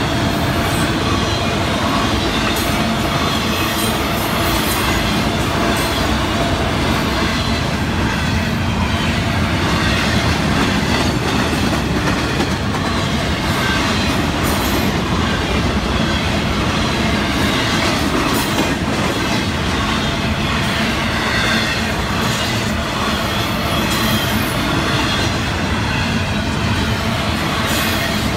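Florida East Coast Railway freight train's autorack and intermodal flatcars rolling past at a grade crossing: a steady rumble and clatter of steel wheels on the rails.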